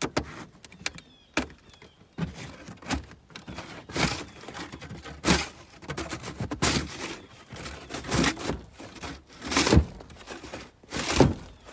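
Snow shovel scraping and knocking against a pickup truck bed, scooping out snow and ice in repeated strokes about one every second and a half.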